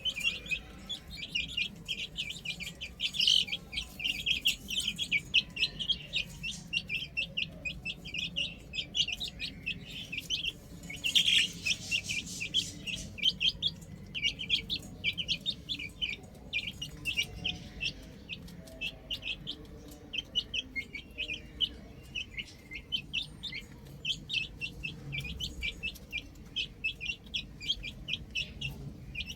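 A flock of baby chicks peeping without pause, many short high-pitched calls overlapping, with one louder call about eleven seconds in.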